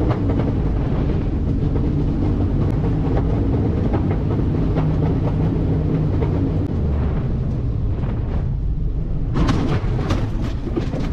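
Steady loud rumble of a light aircraft with one engine out, coming down for a forced landing, heard from on board. A burst of harsh rattling and crackling starts about nine seconds in, fitting the aircraft touching down and running through the cornfield.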